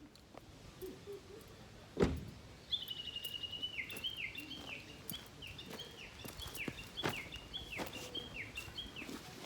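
A songbird singing: a short trill, then a run of repeated downward-sliding whistled notes, about two a second. One sharp knock sounds shortly before the song begins.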